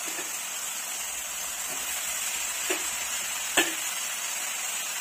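Brinjal cubes frying in oil and masala in a pan, with a steady sizzle. Two sharp knocks come about two and a half and three and a half seconds in, the second louder.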